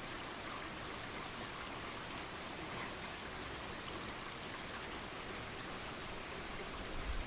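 Steady rain falling, an even hiss dotted with faint drop ticks. A brief soft low bump comes near the end.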